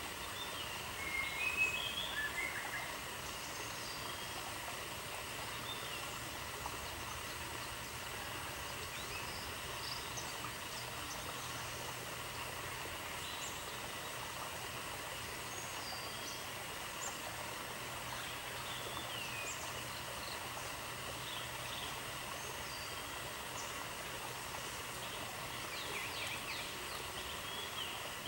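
Outdoor nature ambience: a steady hiss with scattered short bird chirps, a louder burst of chirps about two seconds in.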